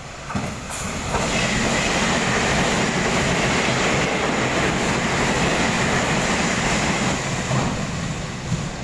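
Puyuma Tze-Chiang express tilting electric train passing through the station at speed: a loud steady rush of wheels on rail with a high whine over it, building in the first second and easing off near the end.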